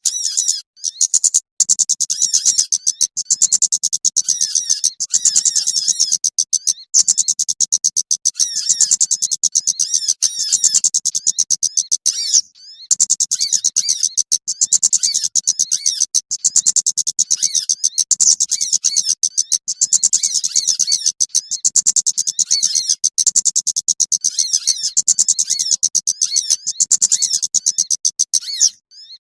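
Dense, rapid high-pitched chirping and trilling of small birds: a bird-lure call recording played on a loop. It breaks off briefly about a second in and again around twelve seconds in.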